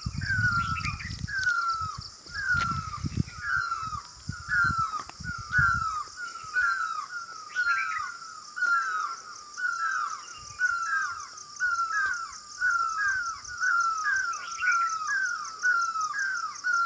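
A bird calling one short, downward-slurred note over and over, about one and a half calls a second. A steady high-pitched buzz runs behind it, and a low rumble is heard during the first six seconds.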